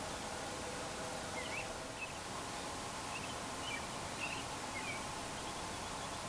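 A small bird giving a scattering of short, high chirps over a steady outdoor hiss.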